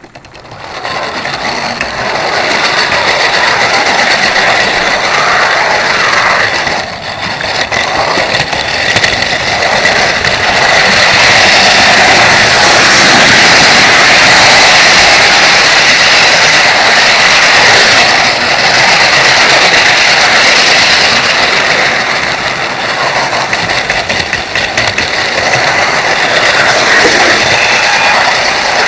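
Model railway wagon rolling along the track, heard from a tiny camera riding on it: a loud steady rattling rumble of wheels on rails with a thin steady whine. It swells up from quiet about a second in and dips briefly partway through.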